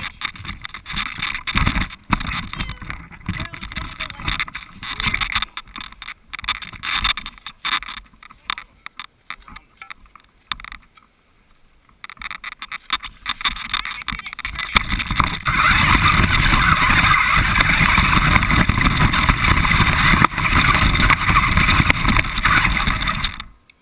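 Radio-controlled car driving, heard from a camera mounted on the car. The noise is uneven and jolting at first, then a lull, then a steady loud run from about two-thirds in that cuts off suddenly just before the end.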